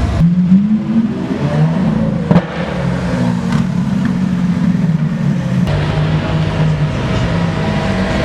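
Car engine rising in pitch over the first second, then running at a fairly steady speed.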